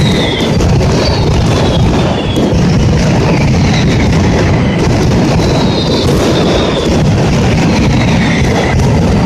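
Mascletà firecracker barrage: a dense, unbroken rattle of bangers going off, with several whistling fireworks falling in pitch through it.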